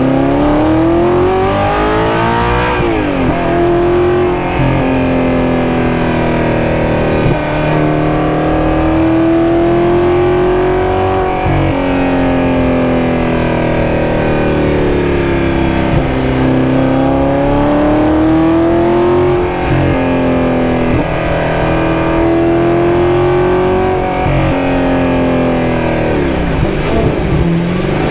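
High-revving sports car engine pulling hard through the gears, its pitch climbing steadily and then dropping sharply at each upshift, several times over.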